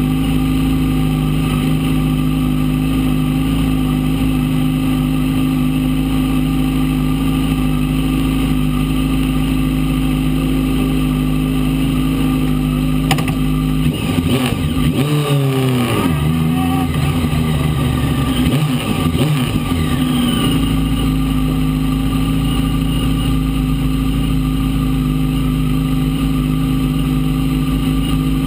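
Fiat 600 prototype race car's engine idling steadily, heard from inside the cabin. About halfway through it is revved in a string of quick blips, rising and falling for several seconds, then it settles back to a steady idle.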